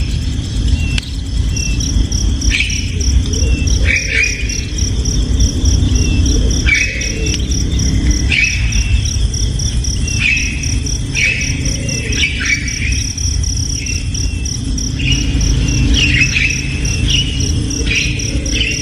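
Baby birds calling: short, downward-sweeping chirps repeated every second or two, over a cricket's steady pulsing trill and a low rumble.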